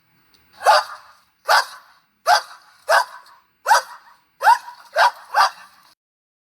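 A dog barking, about eight sharp barks roughly one every three-quarters of a second, the last few coming quicker.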